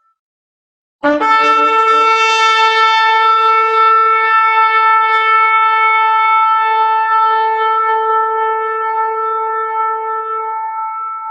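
Shofar blown in one long held blast, starting about a second in with a brief lower note before settling on a steady pitch, fading slightly near the end.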